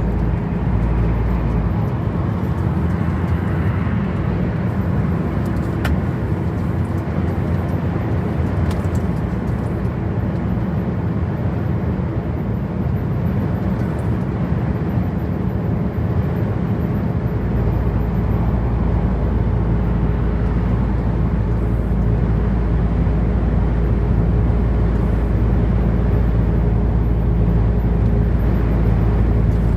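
Truck engine and road noise while driving, a steady rumble with a constant engine hum. The deepest rumble fades for a stretch and comes back strongly about halfway through.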